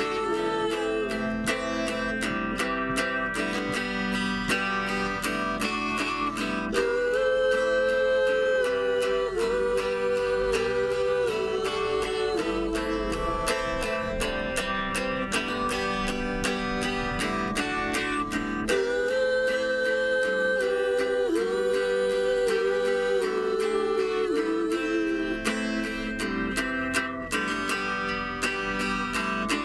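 Acoustic band music: strummed acoustic guitar carrying a repeating melodic phrase through an instrumental stretch of a song, with no sung words.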